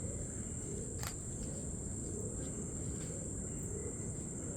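Steady high-pitched drone of insects over a low rumbling background, with a single sharp click about a second in.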